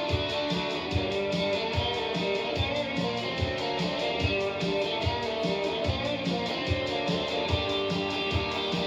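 Live indie rock played through an amplifier: an instrumental passage with electric guitar strumming over a steady low beat.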